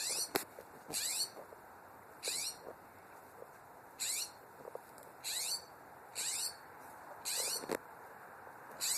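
A bird giving a short, high, scratchy call over and over, about once a second, eight times, each call with quick falling strokes.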